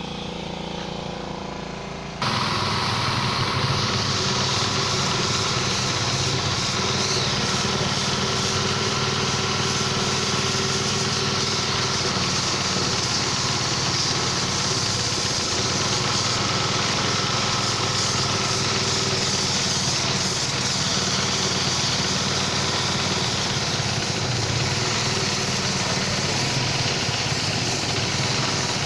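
Pressure washer running steadily; its sound jumps up sharply about two seconds in and then holds level.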